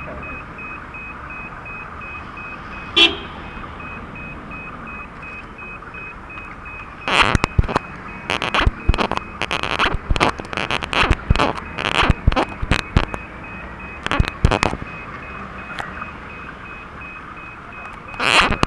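Level-crossing warning bell ringing steadily in quick even pulses. About three seconds in there is a brief horn toot. From about seven seconds a passing train's wheels clack loudly over the rail joints in rhythmic groups.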